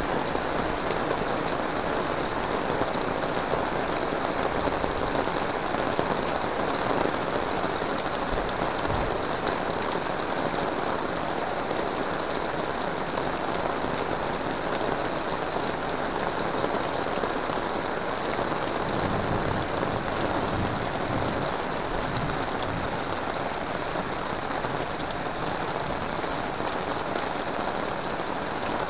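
Heavy rain falling steadily on tiled roofs, leaves and a wet paved path.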